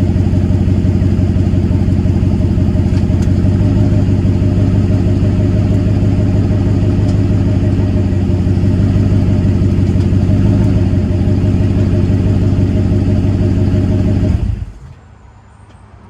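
2004 Ford F-150's 5.4-litre three-valve V8, muffler deleted, idling steadily with a deep, loud exhaust note. The sound stops abruptly near the end.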